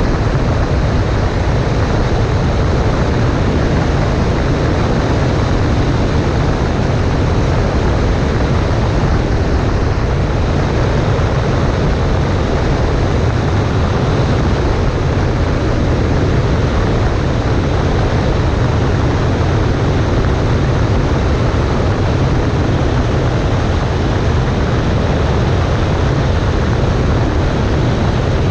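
Cessna 140A's engine and propeller running at a steady power setting in flight, a constant drone mixed with rushing wind noise.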